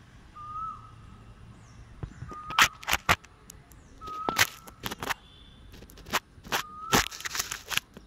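A bird calling: a short whistled note repeated about every two seconds. Sharp clicks and knocks come in between, the loudest in clusters in the middle and near the end.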